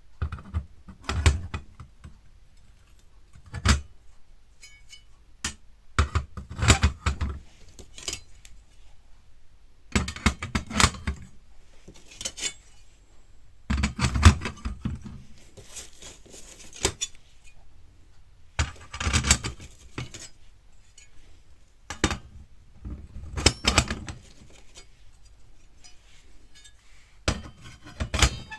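Metal plates and parts of a fire pit being handled and fitted together during assembly: irregular clusters of metallic clinks and clatters every few seconds, with short quiet gaps between.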